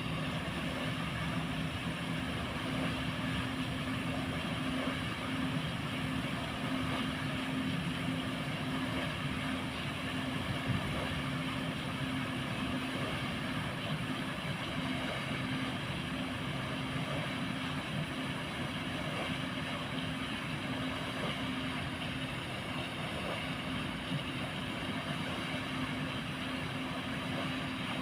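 Motor-driven paddle-wheel water aerator running, a steady hum over the rush of churned water.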